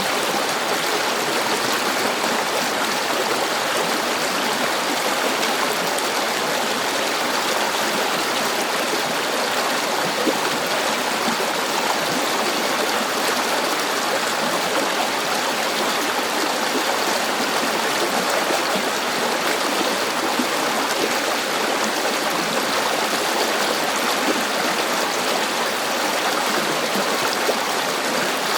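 River water flowing steadily over stones: an even, unbroken rush with fine splashing and gurgling.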